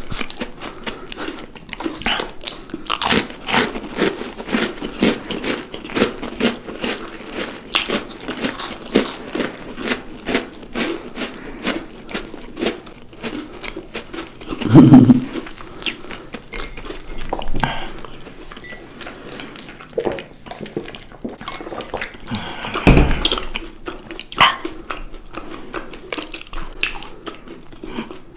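A person biting and chewing chocolates close to the microphone: many quick crisp crunches and mouth clicks. Twice, once about halfway through and once later on, a louder, deeper sound stands out above the chewing.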